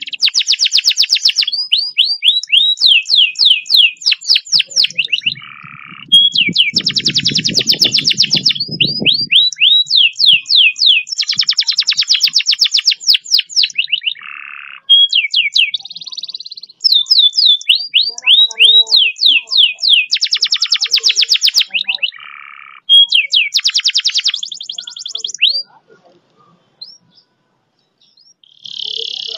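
Domestic canary singing long, fast rolls: runs of rapidly repeated high sweeping notes broken by brief pauses, the song stopping near the end. A low rumble sounds underneath for a few seconds about a quarter of the way in.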